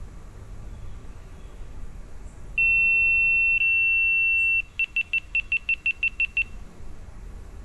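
Electronic beeping: one long steady high beep of about two seconds, then a quick run of about ten short beeps at the same pitch.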